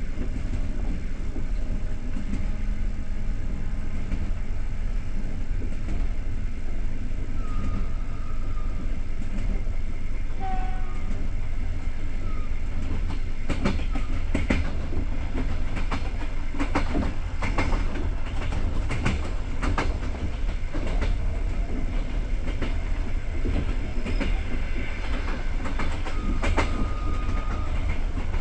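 A moving passenger train heard from inside a carriage: a steady low rumble from the wheels and bogies. From about halfway in, the wheels click irregularly over rail joints. A few brief faint high-pitched squeals come in between.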